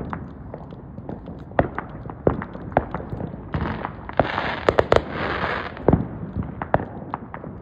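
Fireworks going off: a string of sharp, irregular bangs, with a stretch of dense hissing from about three and a half to six seconds in.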